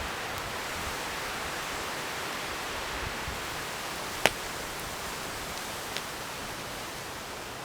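Wood campfire burning with a steady hiss, one sharp crackling pop a little past four seconds in and a smaller one near six seconds.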